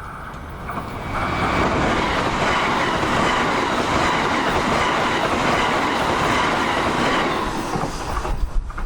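Tobu 70000 series electric train passing at speed, wheels running over the rails. It builds about a second in, holds steady, and fades away near the end.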